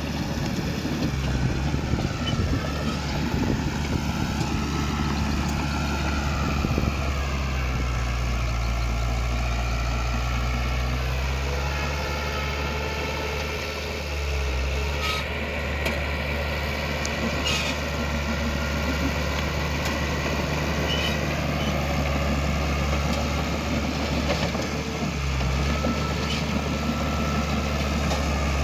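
Heavy earthmoving machine's diesel engine running steadily, its pitch wavering slightly now and then. A couple of short, sharp clanks come about halfway through.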